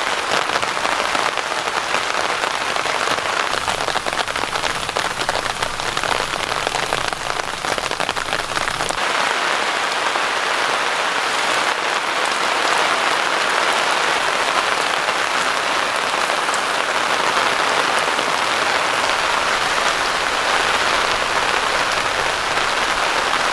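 Steady rain falling, an even patter that shifts slightly in character about nine seconds in.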